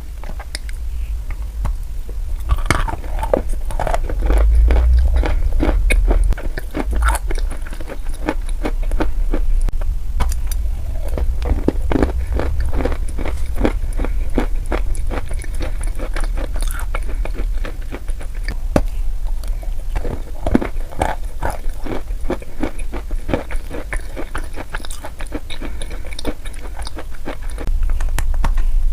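Close-miked crisp crackling and clicking, many small irregular snaps a second, over a steady low rumble.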